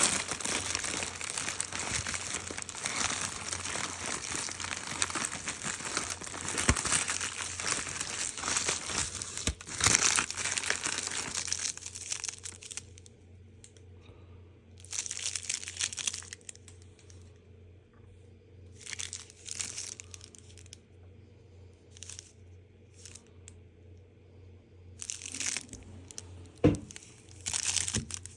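Packaging crinkling and tearing as a firecracker pack is handled. The noise runs continuously for about twelve seconds, then comes in short separate bursts with quiet gaps between.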